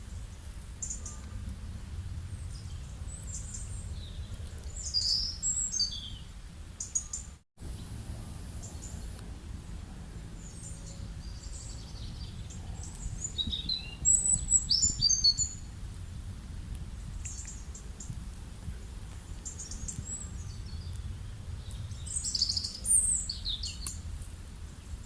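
Small birds chirping and trilling in quick, high-pitched phrases, loudest in short flurries about a fifth of the way in, just past halfway and near the end, over a steady low background rumble. The sound cuts out for an instant about a third of the way in.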